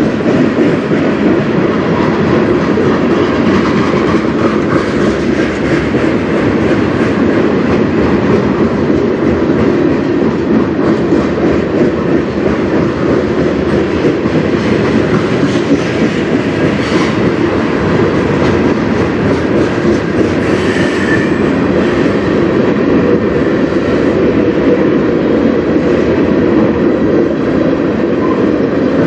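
Freight cars of a manifest train rolling past close by: a steady rumble of steel wheels on rail, with a couple of brief high squeaks past the middle.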